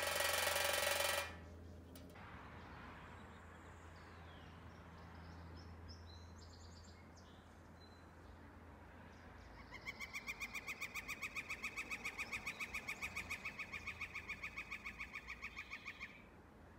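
Northern flicker drumming on a tin chimney cap, heard down the chimney: a loud, very fast metallic rattle lasting about a second at the start. After a long pause comes a second run of evenly paced pulses, about seven a second, lasting some six seconds.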